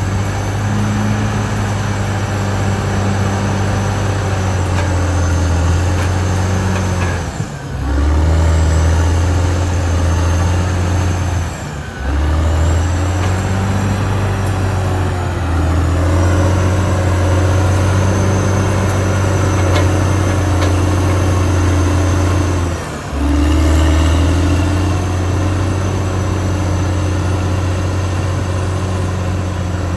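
Caterpillar D6R XL bulldozer's diesel engine running under load, a steady low drone with a faint high whine above it. It eases off briefly three times and pulls again.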